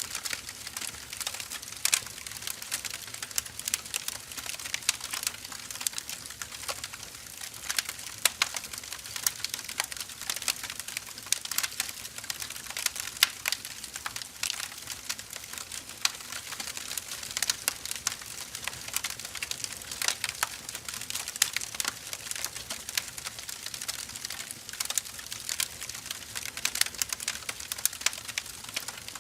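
Wood fire burning with a steady dense crackle of small sharp pops and snaps over a soft hiss.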